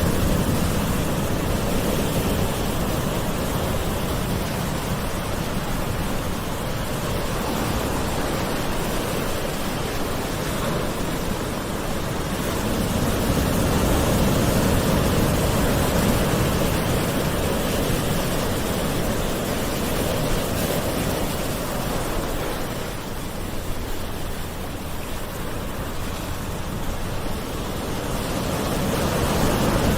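Gentle sea waves washing ashore in a steady hiss of surf that slowly swells and eases, growing louder about halfway through, softening for a few seconds after that, and building again near the end.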